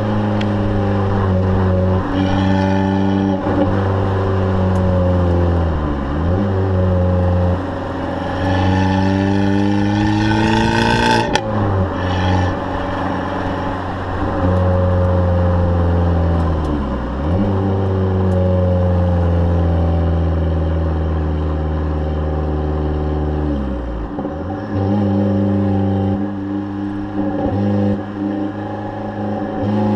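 Abarth 500's turbocharged four-cylinder engine and exhaust running hard, the note climbing in pitch, then dropping sharply and climbing again three times. One sharp pop from the exhaust about eleven seconds in.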